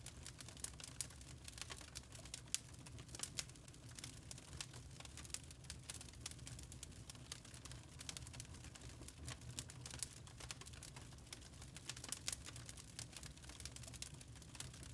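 Burning charcoal crackling: a steady patter of irregular sharp ticks and pops of varying strength over a low, steady rumble.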